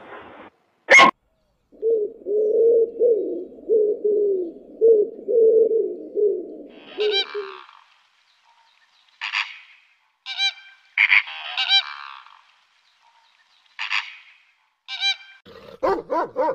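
A low, wavering animal call held for several seconds, followed by a series of short, honking bird calls, each only a fraction of a second long and some repeated in quick pairs.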